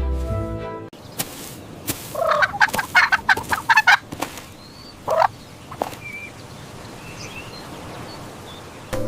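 Background music ends about a second in, then farm fowl call: a fast rattling series of calls for about two seconds, a single call a second later, and a few faint high chirps afterwards.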